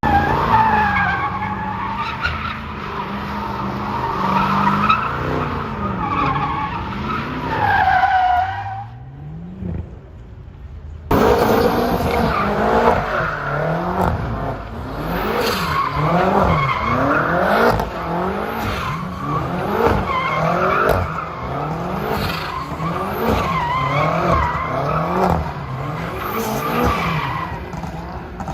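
Car engines revved hard up and down over and over while tyres squeal, as in burnouts or doughnuts. The sound cuts out briefly about a third of the way in, then starts again abruptly.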